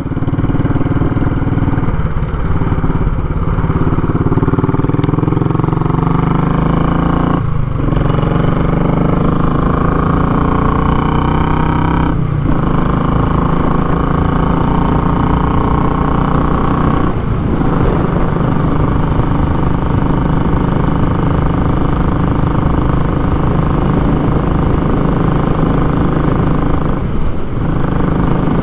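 Royal Enfield Classic 500 single-cylinder engine running through a short, open muffler while riding, a loud exhaust note that rises in pitch between brief dips, about four times.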